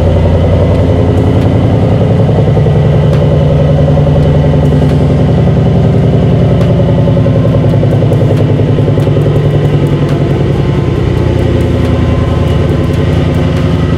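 Ford Mustang V8 running at a steady idle after a cold start.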